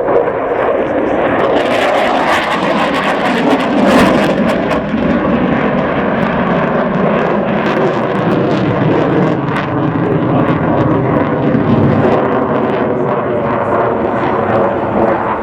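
Dassault Rafale fighter jet flying its display: loud, continuous jet engine noise that crackles sharply for the first few seconds.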